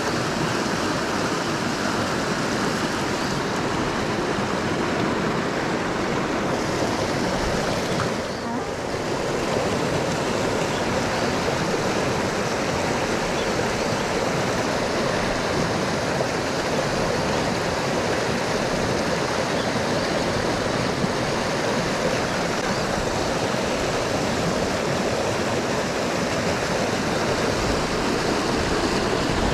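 Mountain stream water rushing steadily, with a brief drop in level about eight seconds in.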